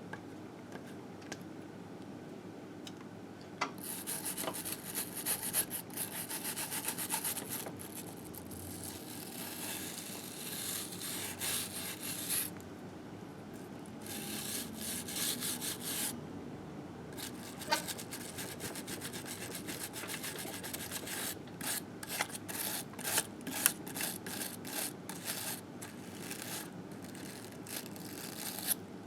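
Hand scrubbing and scraping of caked grime off a 1958 Harley-Davidson Sportster's engine case. It comes in runs of quick strokes with two short pauses, the strokes turning choppier and faster in the second half.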